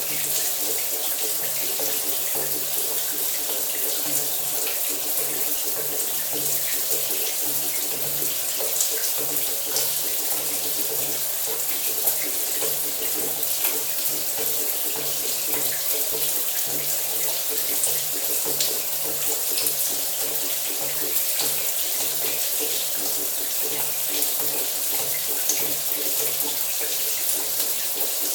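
Shower running steadily: a dense, even hiss of spraying and splashing water, with a low hum pulsing on and off beneath it.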